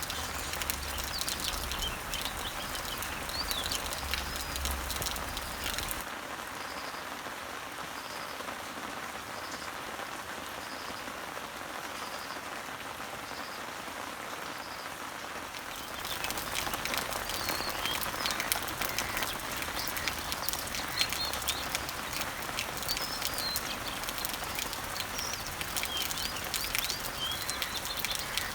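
Steady rain pattering on leaves and trees, a dense spray of fine drops, with birds chirping in the background. From about six seconds in to about sixteen seconds the rain is softer and a short high note repeats about once a second, then the heavier rain and chirps return abruptly.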